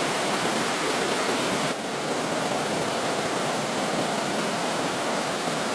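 Steady rushing of water, an even hiss with no distinct events. The higher part of the hiss briefly drops away about two seconds in.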